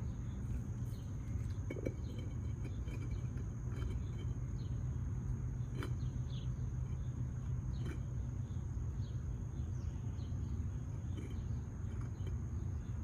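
Outdoor ambience: a steady high-pitched insect drone and faint bird chirps over a low rumble, with a couple of light clicks about six and eight seconds in.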